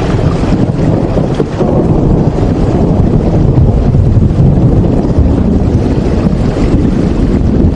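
Steady, loud rain noise, deep and rumbling at the low end, with a faint patter above it and no change in level.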